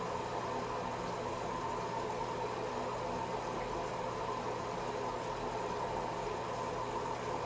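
Washing machine running: a steady mechanical hum with a few constant tones, unchanging throughout.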